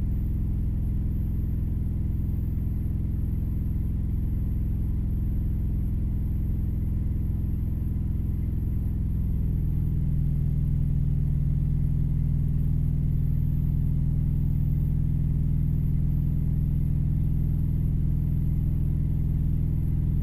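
Truck engine idling steadily with a low hum. About halfway through, the hum shifts to a slightly stronger, steadier low tone and gets a little louder.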